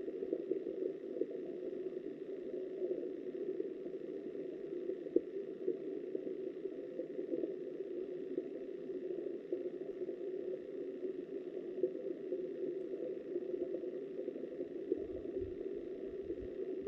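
Steady, dull rush of flowing river water heard underwater through the camera's waterproof housing, with a few soft low knocks near the end.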